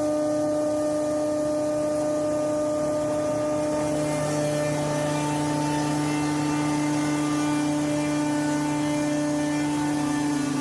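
Forage ultra-fine crusher running steadily under load with a loud, even motor hum while it shreds semi-dry corn stalks; the tone shifts a little about four seconds in.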